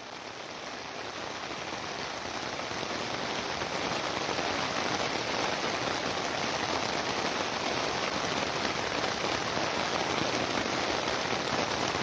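Heavy rain falling, a steady even hiss that fades up over the first few seconds.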